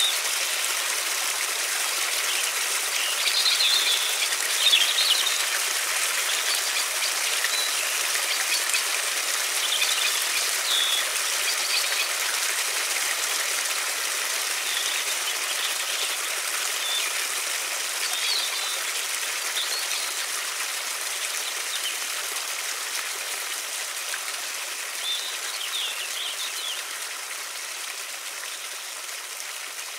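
River water rushing steadily, with songbirds chirping now and then above it. The water slowly grows quieter over the last part.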